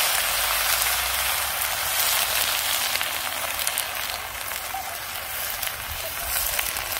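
Food sizzling loudly in hot oil in a wok, a dense crackling hiss that eases off gradually in the second half.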